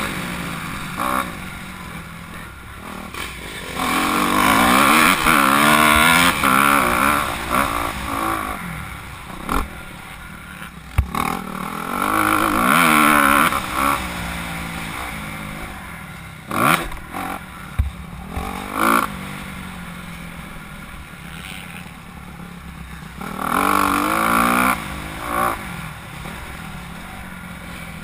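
Honda CRF250R motocross bike, a four-stroke single, revving hard on the track: its engine note swings up and down with the throttle and gear changes, loudest in three spells as it comes past and dropping back between them.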